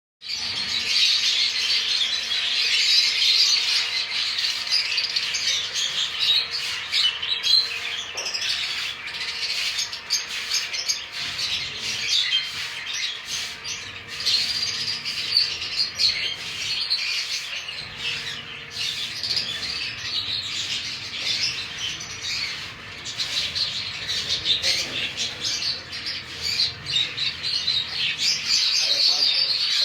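Many small cage birds in an aviary chirping and squawking together in a continuous dense chatter.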